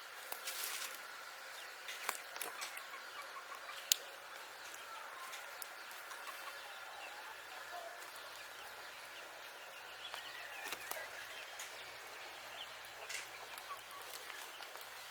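Chickens clucking on a farm, with a few sharp knocks, the loudest about four seconds in.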